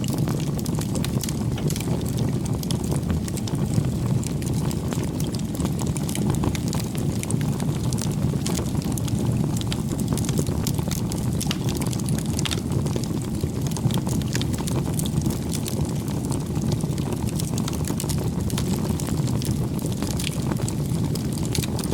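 Wood bonfire burning: a steady low noise of the flames with frequent small, sharp crackles and pops.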